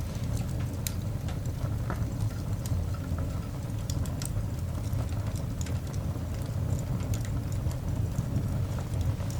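Coal fire burning in a cast iron dog grate: irregular sharp crackles and pops over a steady low rumble.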